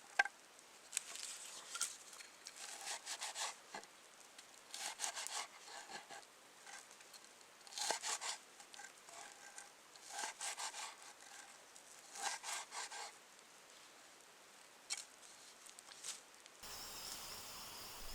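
Repeated scraping strokes on wood, each about a second long, coming roughly every two to three seconds.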